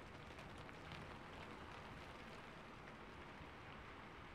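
Steady, faint rain falling, with scattered drop ticks.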